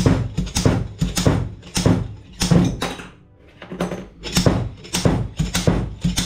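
Repeated hammer blows on metal, about three a second, with a short pause about three seconds in: parts being knocked loose while stripping a milling machine's spindle assembly.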